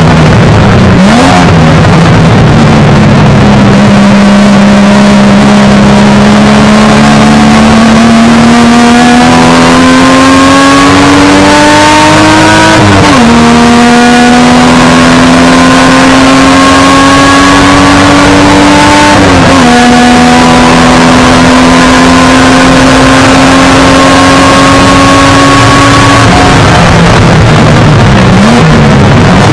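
1971 Triumph GT6's 2-litre straight-six engine running loud under hard acceleration inside the race car's cabin. The engine note climbs slowly, drops sharply at upshifts about 13 and 19 seconds in, then climbs again. Near the end it comes off the throttle with short dips and rises in pitch.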